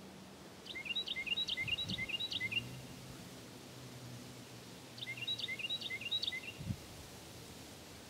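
A songbird singing two bouts of song, each a quick string of five or six repeated chirping phrases lasting under two seconds, the second bout coming a few seconds after the first.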